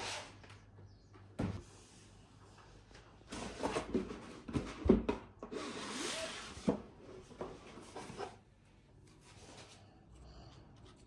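Objects being handled: a click, then a run of knocks, clicks and rubbing, the loudest knock about five seconds in, before it settles to faint room noise.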